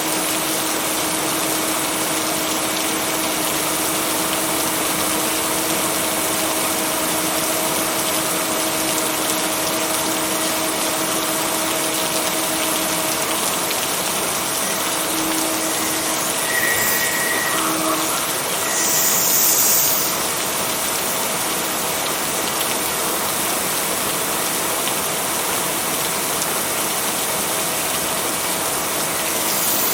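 Steady rain, an even hiss with a faint steady hum underneath, and a brief louder rush of hiss about two-thirds of the way through.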